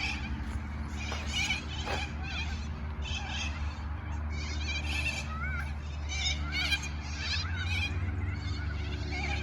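A flock of white parrots calling: many overlapping short, shrill squawks and chatter. A steady low hum lies under it.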